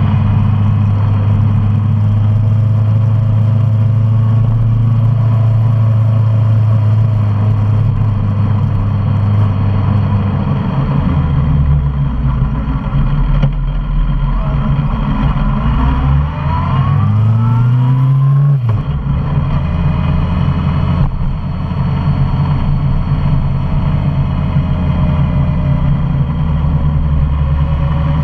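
Suzuki Bandit 650's inline-four engine running under way on the road. Its note is steady, drops lower about ten seconds in, then climbs in a quick rising rev. That rev cuts off sharply two-thirds of the way through, as at a gear change, and the engine settles back to a steady pull.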